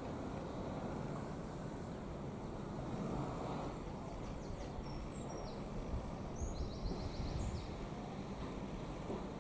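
Low, steady rumble of an Irish Rail 22000 class diesel multiple unit approaching at a distance. A small bird sings two short, high trills about halfway through.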